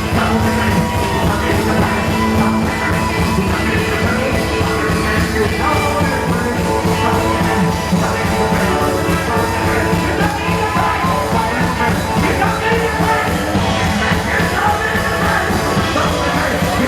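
Live rock-and-roll band playing at full volume with guitar and drums, a loud and steady instrumental stretch.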